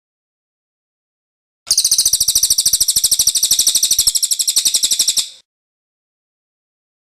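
Cililin bird singing its rolling trill (ngerol): one rapid, high-pitched trill of about a dozen notes a second, starting a little under two seconds in and lasting about three and a half seconds.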